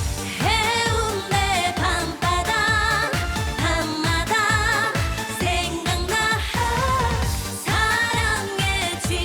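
Korean trot song performed live: a woman singing the melody with wavering vibrato over an upbeat dance backing track with a steady kick drum.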